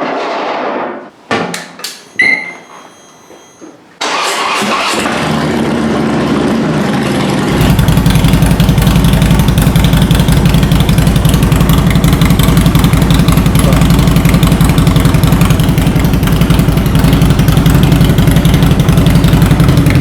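Harley-Davidson Dyna Low Rider S V-twin starting: a few clicks and a short beep, then the starter turns the engine over for about three seconds before it catches and runs steadily and loudly.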